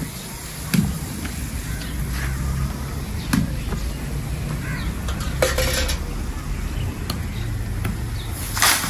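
Spiced onion masala frying in a pot over a wood fire, a steady sizzle, with a metal ladle knocking sharply against the pot a few times, the loudest knock near the end.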